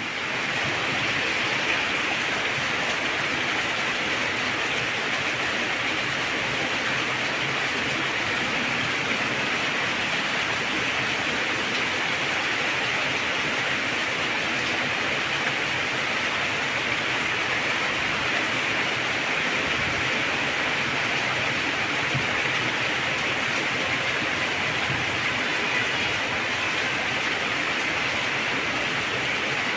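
Heavy rain pouring steadily, an even, unbroken wash of sound.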